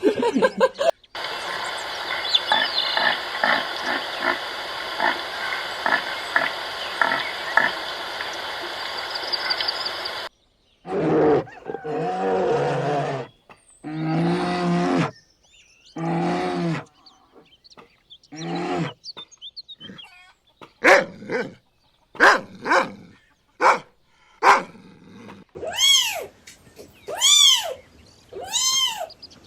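A string of different animal calls edited one after another: first a steady noisy stretch with faint repeated calls, then a run of short pitched grunting calls and sharp clicks, and near the end a few rising-and-falling cries like a cat's meows.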